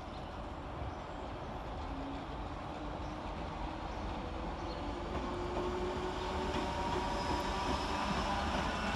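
Merseyrail Class 508 electric train running, growing steadily louder, with a whine of several steady tones coming in over the second half over a low rumble.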